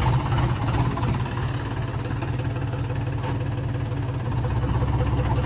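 Sonalika tractor's diesel engine idling with a steady, even throb.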